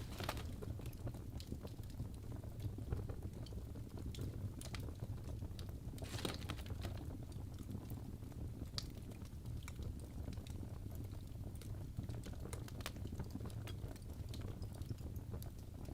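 Wood fire burning in a fireplace: a steady low rumble of flames with irregular sharp crackles and pops of the burning logs, a brief flurry of crackling about six seconds in.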